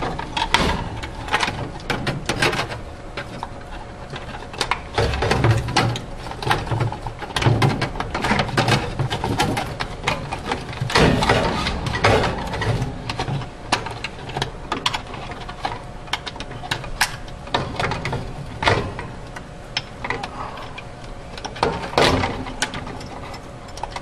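Irregular clicks, taps and clatter of refrigerator parts and wiring being handled and fitted back together by hand, over a faint steady hum.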